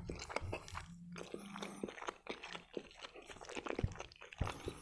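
Close-miked chewing of a bite of breaded chicken Kiev, with crunching of the crust and many short wet mouth clicks. Two short low hums come about a second in.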